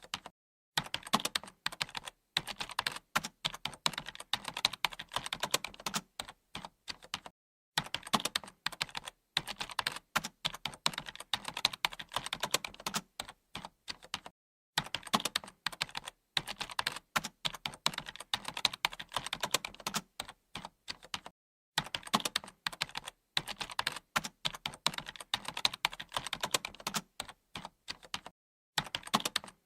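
Computer keyboard being typed on: rapid runs of key clicks in bursts of several seconds, each broken off by a brief pause.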